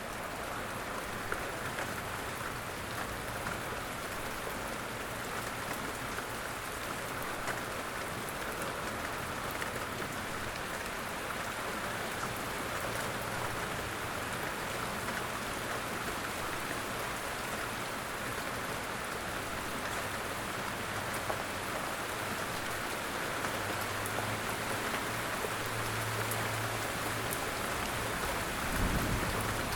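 Steady light rain falling, an even patter throughout. A low hum comes and goes in the second half, and there is one low thump near the end.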